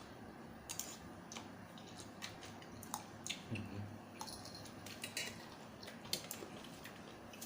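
Faint eating sounds: scattered small clicks and crackles of food being picked up by hand and chewed.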